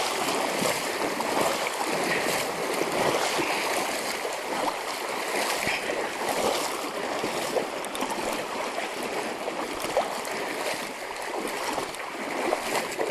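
Fast-moving river water running steadily, with a few faint splashes scattered through it.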